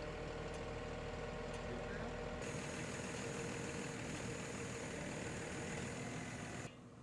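DAF recovery lorry's diesel engine idling steadily. Its tone shifts and gains more hiss about two seconds in, then cuts off shortly before the end.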